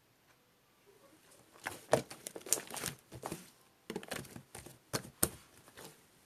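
Crinkling, crackling handling sounds in dense clusters of sharp crackles, starting about a second and a half in and stopping shortly before the end.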